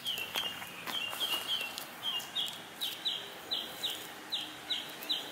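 A bird calling over and over: short, high, downward-sliding chirps at about three a second.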